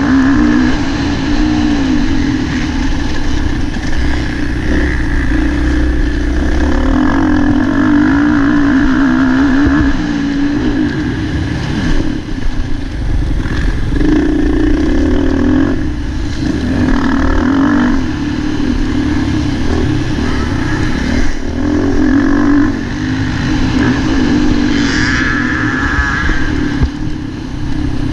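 Motocross bike engine heard at close range, its pitch rising and falling as the throttle opens and closes, with several brief drops when the throttle is shut off.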